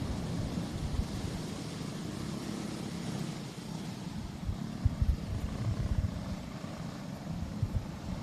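Racing karts' small engines running at low speed under caution, a steady engine drone with uneven low rumble.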